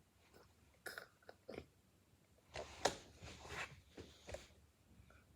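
Plastic clicks, knocks and rattles from a Roomba's dustbin being handled. A few separate clicks come first, then a busier patch of scraping and rattling about two and a half to four seconds in.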